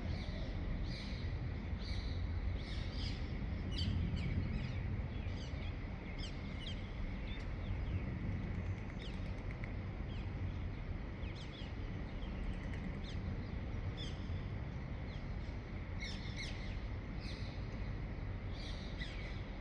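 Several birds chirping and calling in a dawn chorus, short repeated chirps coming thick near the start and again near the end, over a steady low background rumble.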